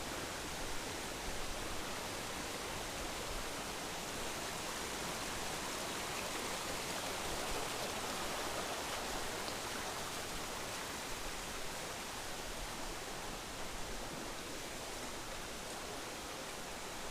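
Steady rushing of a shallow mountain river flowing over rocks.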